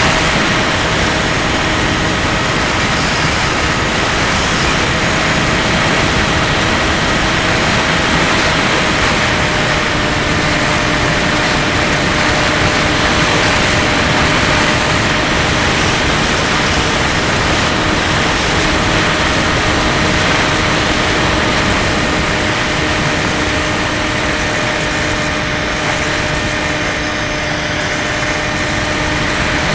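Skywalker 1680 RC plane's electric motor and propeller humming at a steady pitch, under a loud rush of wind noise.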